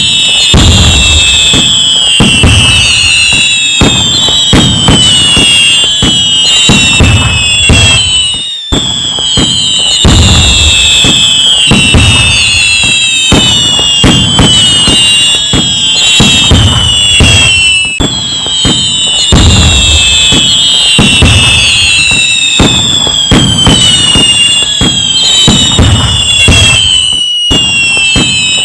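Fireworks going off in dense, continuous cracks and bangs, with many whistling shells whose whistles fall in pitch. The same stretch repeats about every nine seconds, with a brief cut each time it restarts.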